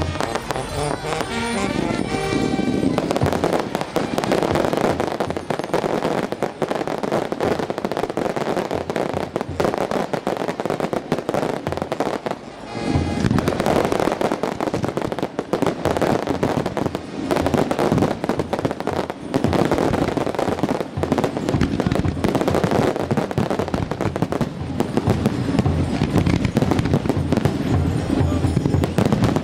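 Fireworks display going off in rapid succession: dense crackling and bangs, with a short lull about halfway through, over music.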